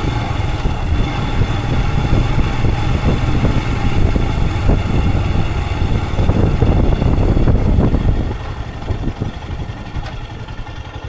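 Royal Enfield Himalayan 411's single-cylinder engine running under way, then dropping to an even, pulsing idle about eight seconds in.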